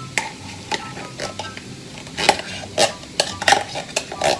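A utensil scraping and knocking against a frying pan as roast beef hash is stirred and mixed, over a light sizzle of frying. The scrapes and knocks come irregularly and get busier about halfway through.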